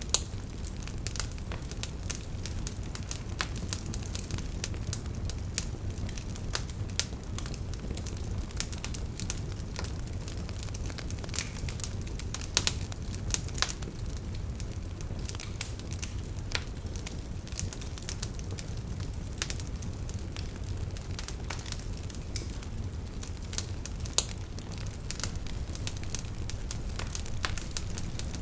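Campfire of burning firewood crackling: irregular sharp pops and snaps over a steady low rumble of the flames, with a few louder pops scattered through.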